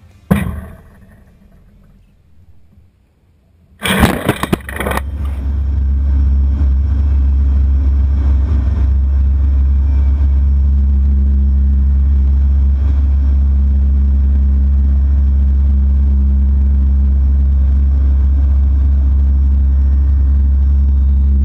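A sharp knock, then a brief loud burst of noise about four seconds in. After that a steady, loud, low engine drone sets in and holds, from a C-130H Hercules's turboprop engines.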